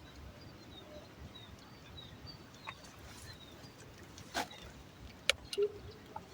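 Faint outdoor ambience: small high chirps repeating about twice a second over a steady hiss, with a couple of sharp clicks midway.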